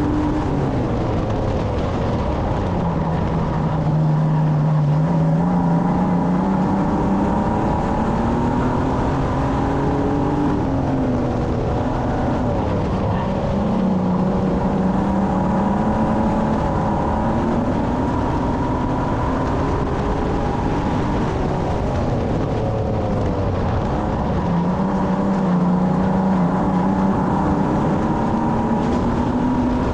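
Racing stock car's engine heard from inside the car at race speed, its pitch dropping and climbing again several times as the driver lifts off and accelerates, over a steady rush of road and wind noise.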